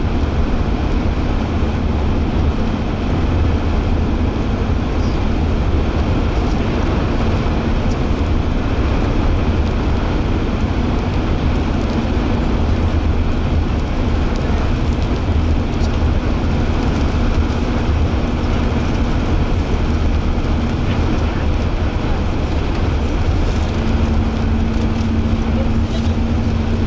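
Road noise of a car driving at speed, heard from inside: a steady low rumble of tyres and engine with a steady hum that grows stronger near the end.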